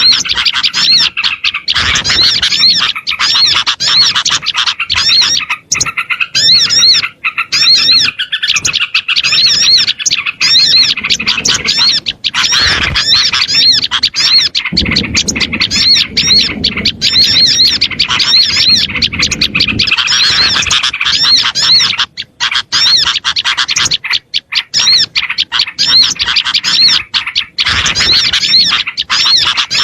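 A noisy chorus of small songbirds: rapid, densely repeated high chirps and calls from several birds at once, used as a bird-catcher's lure call to draw in small birds. A low rushing noise joins in for a few seconds around the middle.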